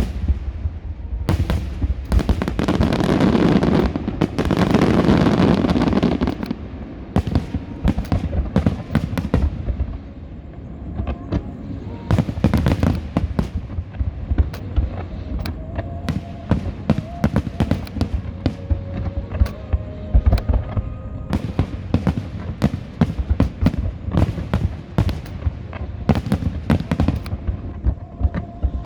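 Fireworks display: a continuous run of sharp bangs and crackles, densest and loudest a couple of seconds in, then steady scattered bursts.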